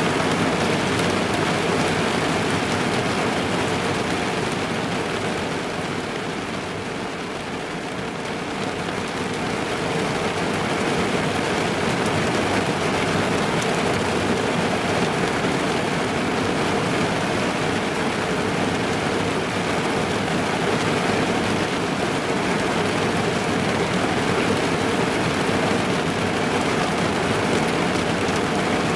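Heavy rain drumming on a car's roof and windows, heard from inside the cabin as a dense steady patter, easing slightly for a few seconds around the first third.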